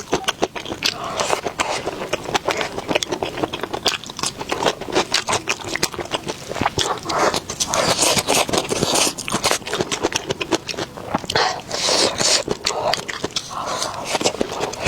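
Close-miked eating: a person chewing and biting food, with many sharp wet clicks and mouth noises.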